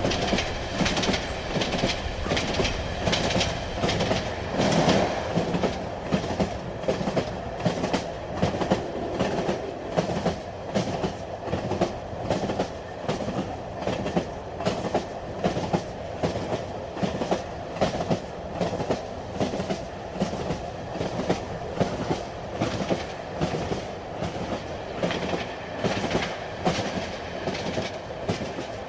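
Train running on the rails: a steady rumble with evenly repeating clicks of the wheels passing over rail joints.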